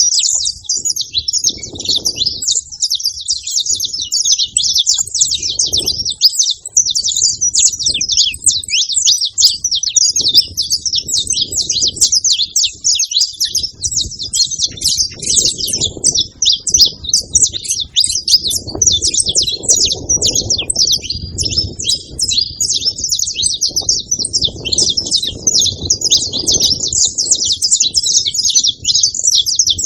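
Saffron finches singing, a dense, unbroken run of rapid high chirps and trills. Low rumbles come and go underneath.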